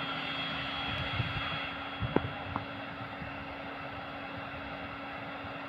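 Steady motor hum with an even hiss, with three sharp knocks between about one and two and a half seconds in.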